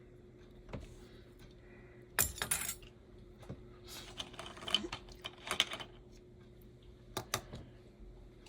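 Small metal parts and tools clinking and rattling on a workbench in several short bursts, over a faint steady hum.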